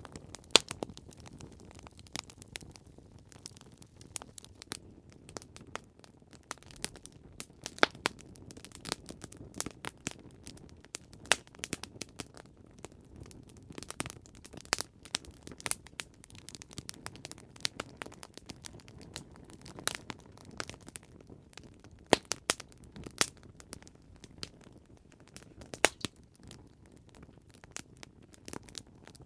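Campfire crackling: irregular sharp pops and snaps over a steady low hiss of burning wood, with a few louder pops scattered through.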